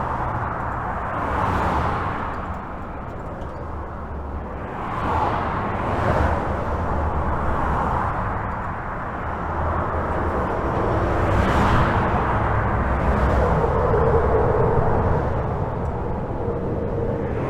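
Continuous highway traffic: a steady wash of tyre and engine noise over a low rumble, with single vehicles swelling past every few seconds and a faint steady whine from one vehicle near the end.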